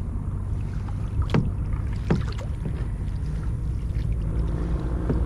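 Kayak paddling: paddle strokes in the water over a steady low rumble, with two sharp knocks about a second and a half and two seconds in.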